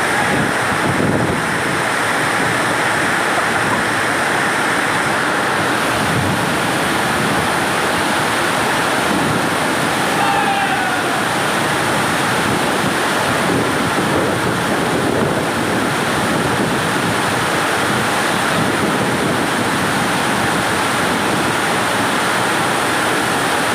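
Heavy rain pouring steadily, a dense, even rush of noise. A brief, faint falling tone sounds about ten seconds in.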